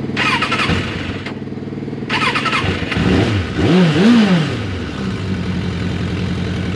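Suzuki Katana motorcycle's electric starter cranking in two short tries, with the engine catching on the second try. It is blipped twice, then settles into a steady idle, while other motorcycle engines idle underneath.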